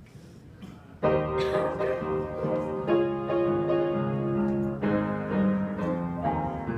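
Piano (or electric keyboard) introduction to a gospel song, sustained chords changing every second or so, starting suddenly about a second in after a moment of quiet.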